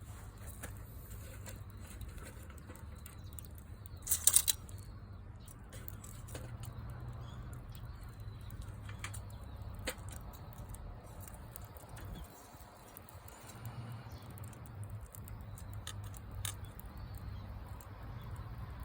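Wood bonfire burning with scattered crackles and pops over a steady low rumble, and a short, louder burst of crackles about four seconds in.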